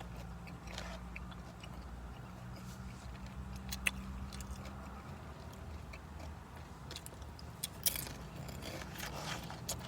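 Someone chewing and biting into crunchy nacho tortilla chips, with a few sharp crunches or fork clicks, over a low steady hum.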